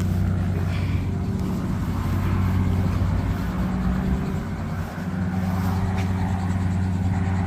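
Car engine running at low speed while the car is manoeuvred into a parking spot, a steady low hum heard from inside the cabin.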